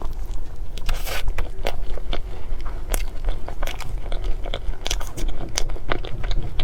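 Close-miked chewing and mouth sounds of a person eating cake: irregular clicks and smacks, several a second, with no break.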